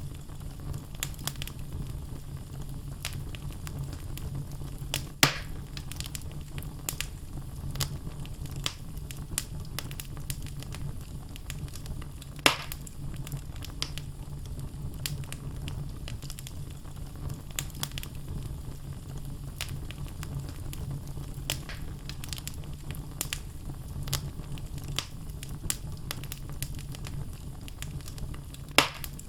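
Wood logs burning in a fireplace: a steady low rumble of the flames with frequent small crackles, and three louder pops, about five seconds in, about twelve seconds in, and near the end.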